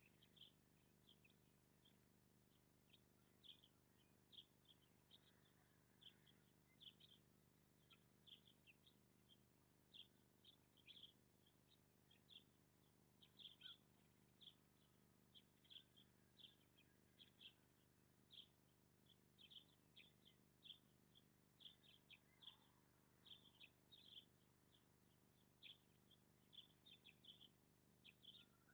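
Faint chirping of small birds: short high chirps repeated irregularly, sometimes several a second, over a steady low hum.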